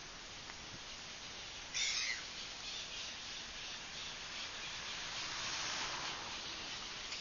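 A bird gives one short, loud call about two seconds in, followed by softer repeated high chirping over a steady background hiss.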